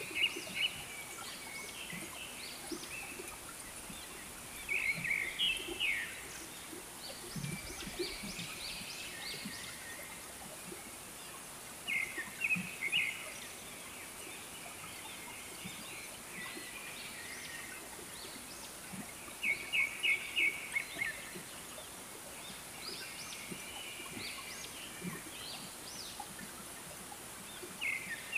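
A bird calling in short chattering bursts every few seconds, over a steady high hiss.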